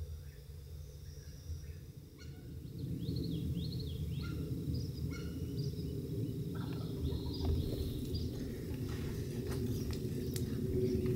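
Birds calling at first light: a string of short chirps and quick rise-and-fall notes, over a low rumbling noise that grows louder about two and a half seconds in, with a few sharp clicks near the end.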